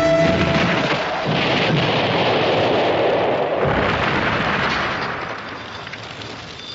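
A loud explosion's roar rolling on, swelling twice and then dying away over the last couple of seconds.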